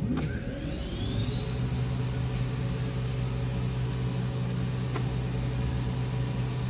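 Haas VF-1 CNC vertical machining center's 20 hp spindle spinning up to its top speed of 7,500 RPM: a rising whine that levels off after about a second and then holds as a steady high-pitched whine over a low hum.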